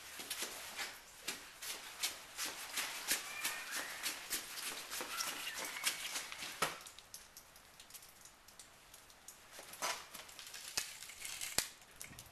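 Irregular crunching of snow, a quick run of crisp crunches for about the first seven seconds that thins out to a few scattered ones after that.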